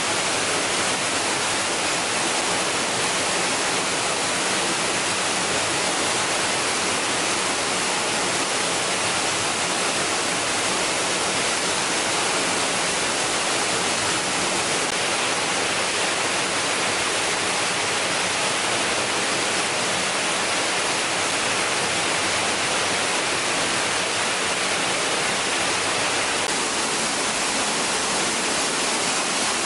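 Waterfall: a steady, even rush of falling water that holds level and does not change.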